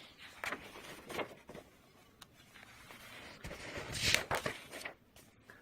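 Paper rustling as the pages of an old book are handled, with a louder rustle about four seconds in.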